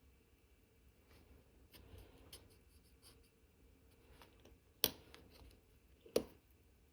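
Small watchmaker's tools handling watch parts: faint light scratches and ticks, then two sharp clicks about a second and a half apart in the second half.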